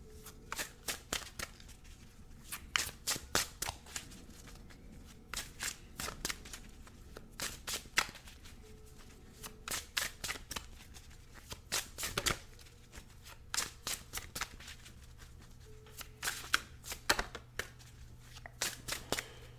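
A deck of oracle cards being shuffled by hand, in irregular runs of quick card clicks and slaps with short pauses between.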